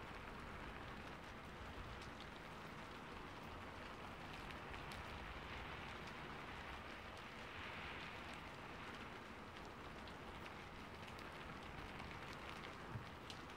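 Light rain falling steadily and faintly: an even hiss with scattered ticks of drops, and one sharper tick near the end.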